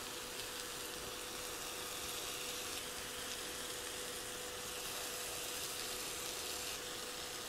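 Sausage and green bell pepper frying in a skillet, a steady sizzle, with a faint steady tone underneath.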